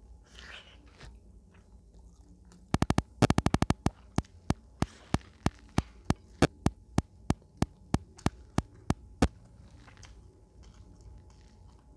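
A run of sharp, close clicks: a quick flurry of about a dozen, then about three a second, stopping suddenly; faint chewing and rustling come before them.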